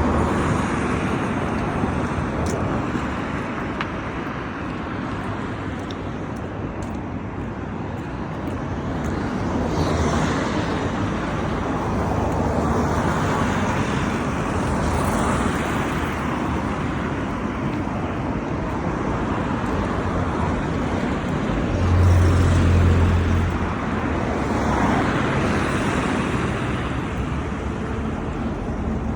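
Street traffic: cars passing one after another over a steady road noise, each swelling and fading. The loudest pass comes about three-quarters of the way through, with a deep low hum.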